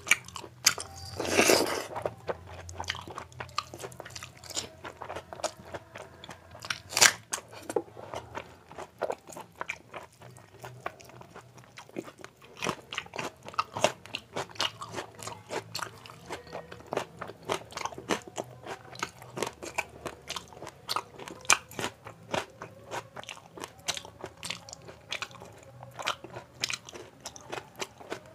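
Close-miked mouth sounds of a person eating rice and curry by hand: chewing and crunching with many sharp wet clicks and smacks. One louder, longer sound comes about a second and a half in.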